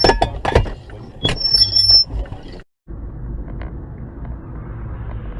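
Car dashcam audio: several loud bangs and knocks with a thin high tone over them in the first two and a half seconds. The sound then cuts off abruptly, and a steady low road and engine rumble follows.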